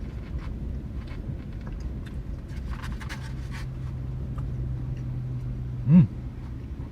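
Low rumble of wind with scattered small mouth clicks from chewing. About six seconds in comes a short, loud low-pitched vocal sound from the eater, a grunt that rises and falls in pitch.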